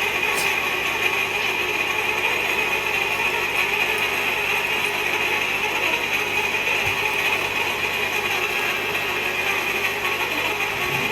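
Manual hot tapping machine working on a steel pipe: a steady, continuous mechanical grinding and ratcheting that does not change.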